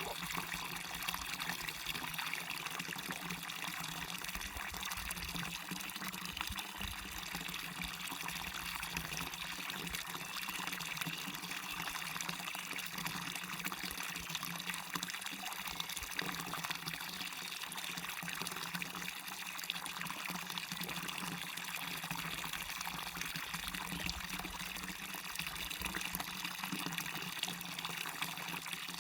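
Waterfall on a stream: water falling and running in a steady, unbroken rush.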